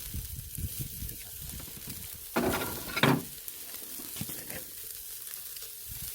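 Pork neck sizzling on a grill over a charcoal brazier: a steady hiss, with irregular low knocks in the first couple of seconds and two short, louder sounds about two and a half and three seconds in.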